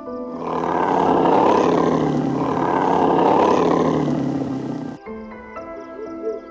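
A big cat's long roar, swelling and then fading over about four and a half seconds, over background music. The roar stops about five seconds in, leaving the music's held notes.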